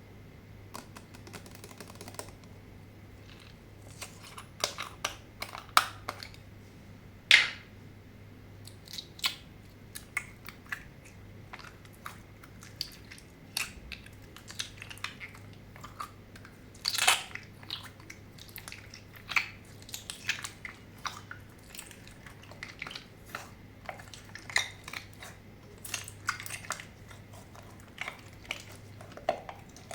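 Slime being worked by hand, giving irregular sticky clicks, pops and squelches, with a few louder pops about 7 and 17 seconds in.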